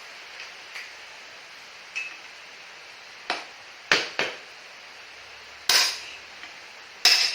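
Hammer striking metal, about six sharp knocks at irregular intervals over a steady hiss, as when tapping out a stuck motorcycle rear axle.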